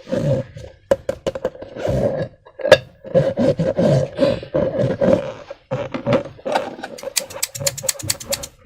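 Slime and rubber balloons being handled and squeezed: sticky clicks and pops over a rubbery squeaking rub, with a fast run of crackling pops near the end.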